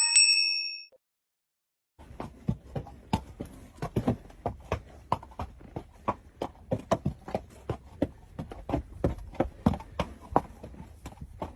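Rapid, irregular sharp knocks, about three or four a second, starting about two seconds in after a short chime fades.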